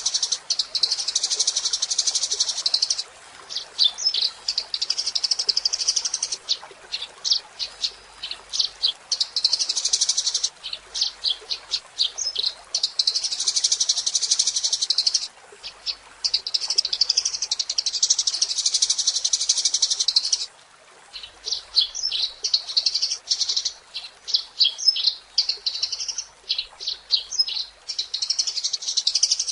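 Eurasian tree sparrow chattering: long stretches of fast, high, dense trilling alternate with runs of separate sharp chirps.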